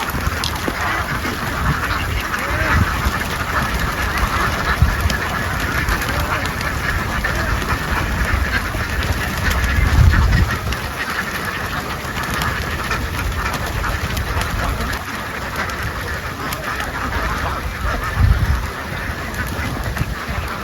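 A large flock of ducks quacking continuously, a dense overlapping chatter of many birds at once, with a couple of low thumps, one about halfway through and one near the end.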